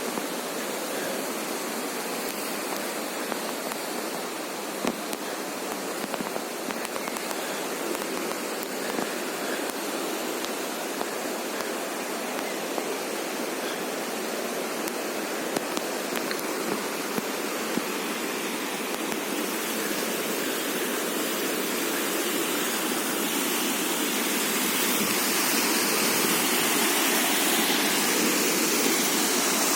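Steady rushing of a turbulent mountain stream or waterfall, growing gradually louder over the last third, with a few faint ticks in the first half.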